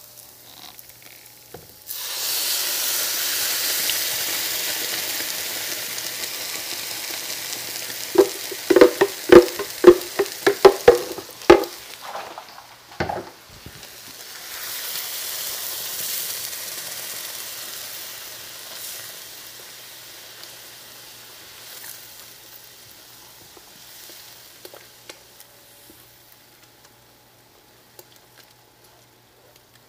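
Spiced corn tortilla strips frying in olive oil in a skillet, a steady sizzle as they are stirred with a spatula. About eight seconds in comes a quick run of sharp knocks on the pan, then a fresh burst of sizzling as the tomato-onion purée hits the hot pan, dying down as it is stirred in.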